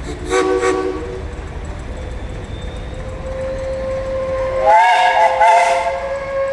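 Steam whistle on a 1909 Case 6 hp steam traction engine being blown: a short toot about half a second in, then a longer held blast that swells louder about five seconds in.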